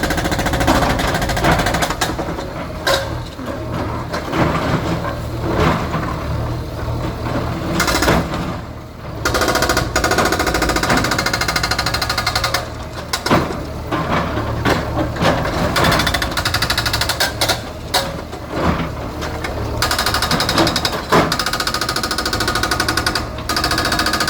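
A bulldozer's diesel engine running under load, with repeated knocks and bangs from demolition work.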